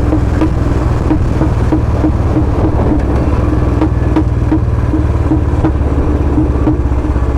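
Royal Enfield Bullet 350's single-cylinder engine running through a free-flow L-bend 'Long Punjab' exhaust while riding at a steady pace: a loud, deep, rapid thump.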